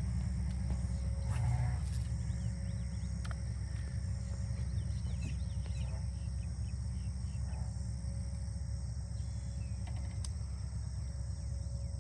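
Outdoor ambience: a steady high-pitched insect drone over a constant low rumble, with a few faint bird chirps.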